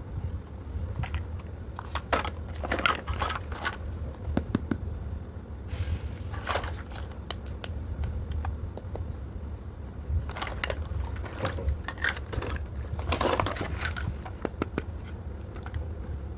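Small plastic toy pieces and packaging being handled: clusters of light clicks, crackles and scrapes, over a steady low hum.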